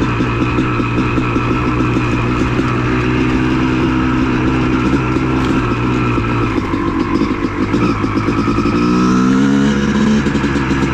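CR250 two-stroke dirt bike engine running under throttle while riding, its pitch wavering and then rising as it revs up near the end.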